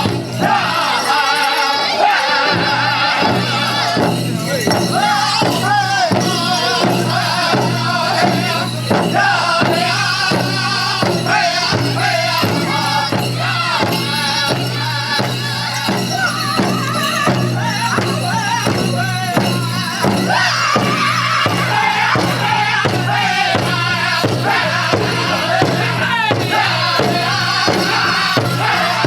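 Powwow drum group singing a chicken dance song in high, wavering voices over a steady beat on a large shared powwow drum.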